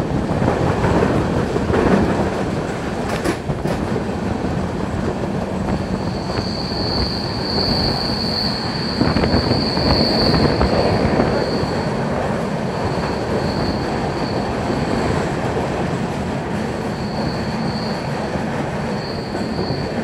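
Tamil Nadu Express passenger train running on the rails with a steady rumble, heard from on board. From about six seconds in, a high wheel squeal comes and goes.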